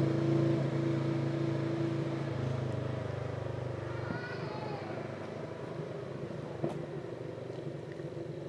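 A car engine running with a steady hum that slowly fades and drops in pitch a couple of seconds in. A brief high chirp comes about four seconds in, and a single click near the end.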